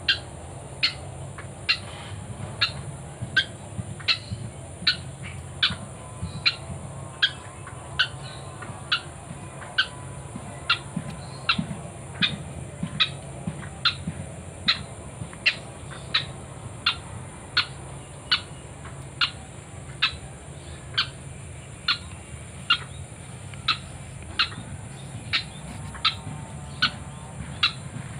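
White-breasted waterhen calling: a short, sharp note repeated evenly, a little over once a second, over a steady high buzz.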